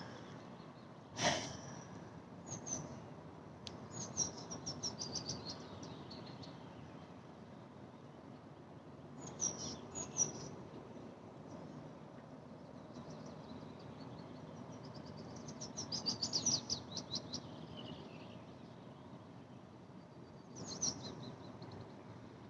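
A songbird sings several short phrases of rapid high notes, one near the middle-to-end trailing downward in pitch, over a steady outdoor hiss. A single sharp knock sounds about a second in.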